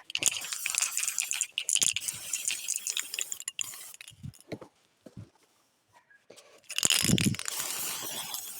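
Aerosol can of black spray paint hissing in spurts as it runs nearly empty, with the can rattling between sprays. The spraying stops for about two seconds midway and starts again near the end.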